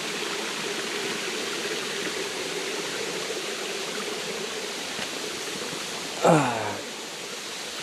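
Creek water rushing steadily over rocks from a nearby waterfall. About six seconds in, a person's voice makes one short sound that slides down in pitch.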